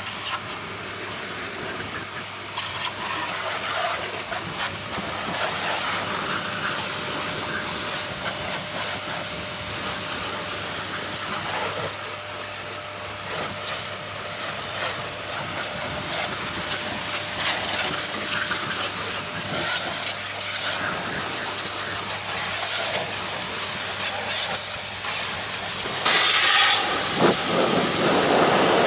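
Water hissing from a hose nozzle as it sprays a muddy motorcycle clean, getting louder near the end.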